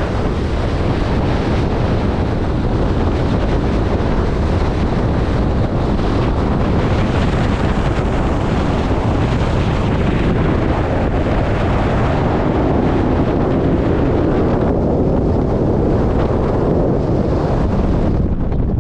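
Strong wind buffeting the microphone, a steady loud rushing with heavy low rumble, easing a little in the upper range near the end.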